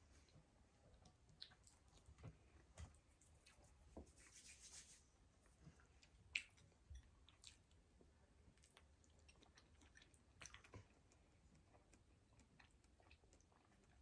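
Faint eating sounds close to the microphone: chewing, with scattered sharp clicks and smacks. There is a short hiss about four to five seconds in, and the loudest click comes a little after six seconds.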